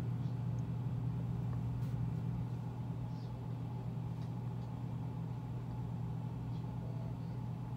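Mercedes-Benz engine idling steadily in Park, a constant low hum heard through a computer's speaker.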